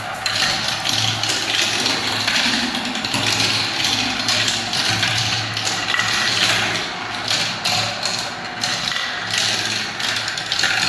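Marbles rolling down a spiral marble-run track: a dense, continuous clatter of small clicks and taps with a steady low rumble beneath.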